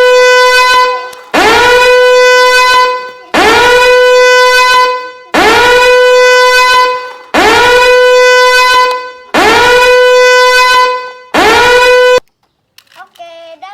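A horn sounding one steady note in long blasts, one every two seconds, each sliding up into pitch as it starts; six blasts, the last cut off sharply.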